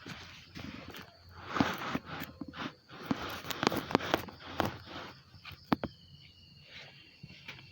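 Oil palm harvesting work: rough rustling and a run of sharp knocks and cracks, thinning out after about six seconds, over a steady high whine of insects.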